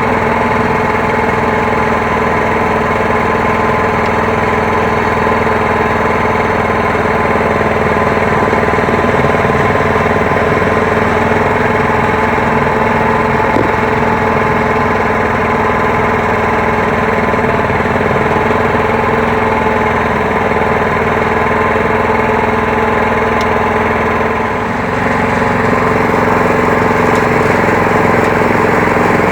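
Petrol engine of a 7¼-inch gauge petrol-electric miniature locomotive running steadily at an even speed, dipping briefly about three-quarters of the way through before carrying on.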